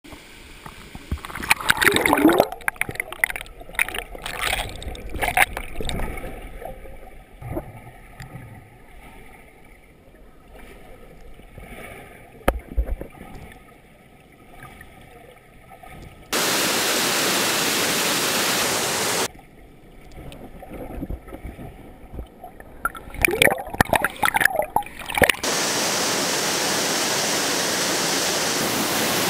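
Water splashing and sloshing irregularly in a waterfall's plunge pool. Twice the steady rush of the falling water takes over loudly, about 16 s in for three seconds and again from about 25 s in, each time starting and stopping abruptly.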